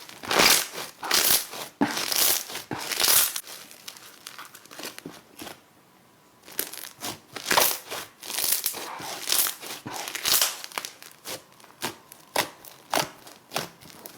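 Slime being squeezed and pressed by hand, giving crackly, crinkling pops in quick irregular bursts, with a short lull about halfway through.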